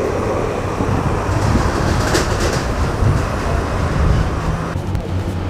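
A train running past on nearby tracks: a steady rumble with a hiss over it, and the hiss drops away suddenly near the end.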